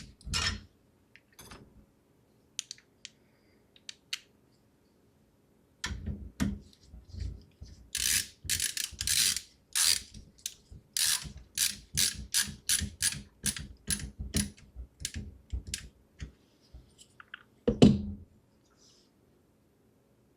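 Hardware being handled in the build of a small PC case: a run of quick, ratchet-like clicks, about two to three a second for several seconds, then one louder knock near the end.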